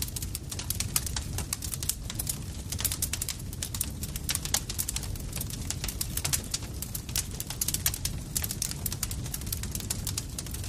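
Campfire crackling: a dense, irregular run of sharp pops and snaps over the low, steady rumble of the burning wood.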